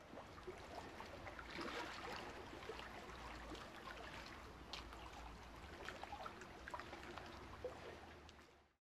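Faint trickling and dripping water, with many small scattered splashes.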